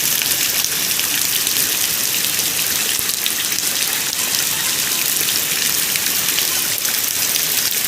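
Steady heavy rain, a dense even hiss with scattered drop ticks.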